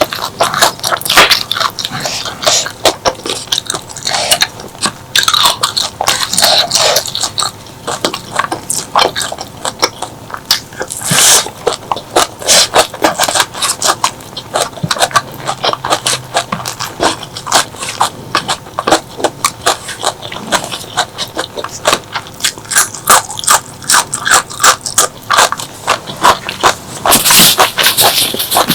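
Close-miked eating sounds: chewing and crunching of food, a dense, continuous run of crackles and wet mouth clicks.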